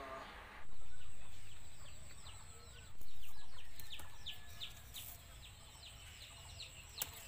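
Birds chirping, many short falling high chirps in quick succession, over a steady high-pitched whine. Two low swells of rumbling noise rise sharply and fade, about a second in and about three seconds in.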